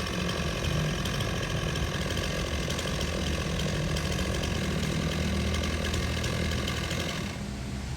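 Two-stroke chainsaw engine running steadily at speed, then turning quieter and duller near the end.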